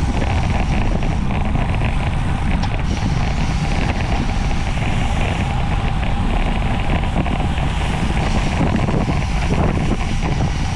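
Wind rushing over the microphone at bicycle racing speed, a steady loud rush.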